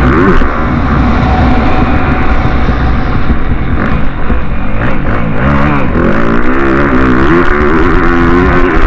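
Motocross bike engines revving on the track, their pitch repeatedly rising and falling with the throttle, with more than one engine heard at once. Loud throughout.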